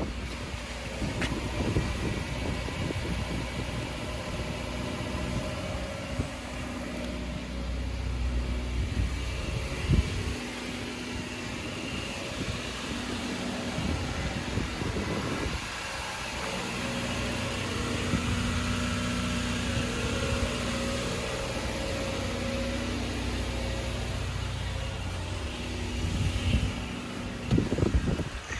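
2016 Subaru Crosstrek's 2.0-litre flat-four boxer engine idling steadily after a cold start. There is one sharp knock about ten seconds in and a few louder bumps near the end.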